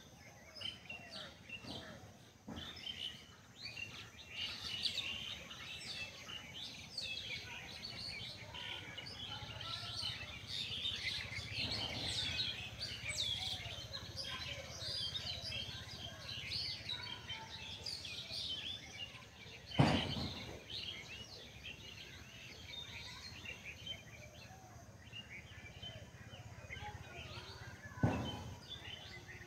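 Many small birds chirping and calling over a steady outdoor background. Two sharp, loud thumps stand out in the second half, the first the louder.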